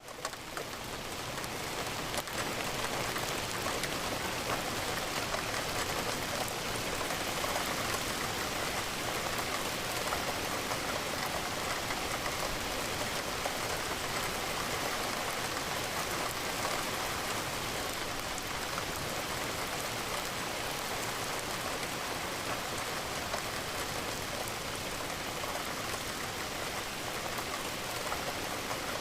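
Steady rain pattering against a window. It dips briefly at the very start and swells back within a second or two.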